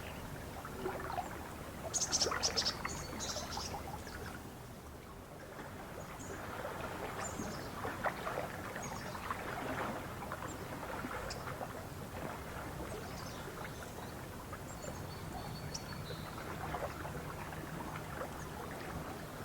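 Lake water lapping and splashing gently along the shore. A bird gives a quick burst of high chirps about two seconds in, and a short high whistle sounds near the end.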